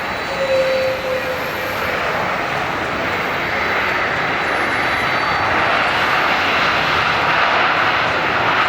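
Jet airliner engines running as a steady roar that grows gradually louder and brighter in the second half. A short whistle-like tone sounds about half a second in.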